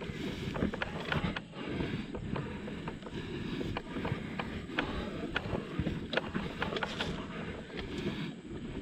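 Dirt bike rolling down a rough trail: a steady low rumble with frequent sharp knocks and clatters from the tyres going over rocks.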